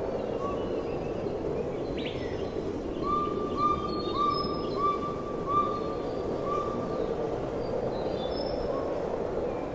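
Rainforest ambience: a steady background hiss with a bird calling a run of about six short, evenly repeated notes in the middle, and faint high chirps from other birds.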